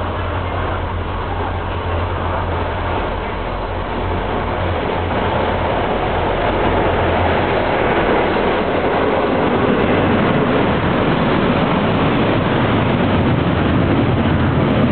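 A diesel-hauled freight train, led by an EMD G26CU locomotive, running through a station without stopping. A steady low engine hum as the locomotive comes up and passes, then louder steady rolling noise from about six seconds in as the coach and freight wagons go by close at hand.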